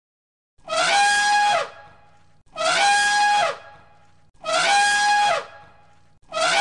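Elephant trumpeting: a shrill, brassy call about a second long that rises, holds and falls, repeated identically three times, with a fourth starting near the end.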